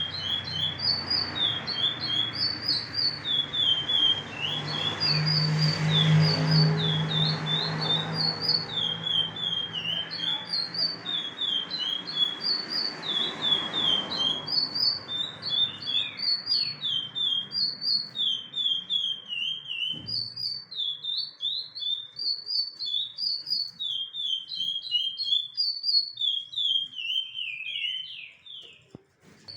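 Chestnut-bellied seed finch (curió) singing the 'praia clássico' song, a long unbroken run of quick, clear whistled notes that rise and fall in repeating phrases. A low rumble sits beneath the song in the first half, fading out about halfway through.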